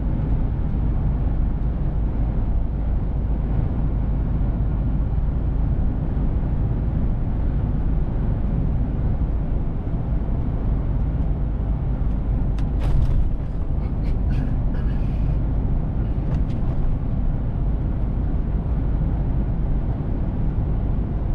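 Mercedes-Benz Actros diesel truck driving: a steady low engine and road rumble, with a short cluster of clicks and a brief hiss about two-thirds of the way through.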